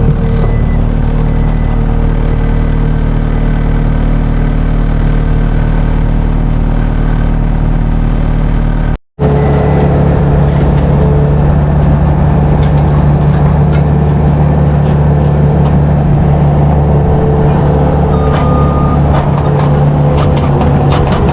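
Farm machinery engine running steadily at constant speed, loud and close. It is broken by a short cut about nine seconds in, then runs on with a deeper, stronger hum.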